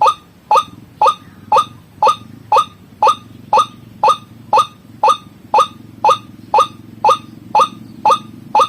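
White-breasted waterhen (ruak-ruak) lure call: short notes repeated evenly about twice a second, each dropping quickly in pitch.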